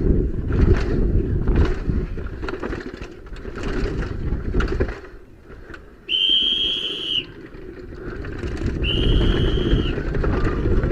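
Wind rushing over the microphone on a moving bicycle, with a few knocks early on. It eases off about halfway through, then returns. Twice, a steady high whistle-like tone sounds for about a second each, near the middle and again a few seconds later.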